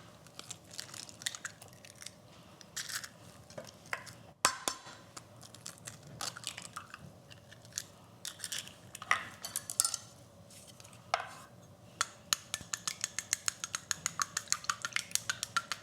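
Scattered taps and clinks of eggs being cracked and handled at a bowl, then a quick, even clicking of a utensil against the bowl, about four or five strokes a second, as the eggs are gently whisked.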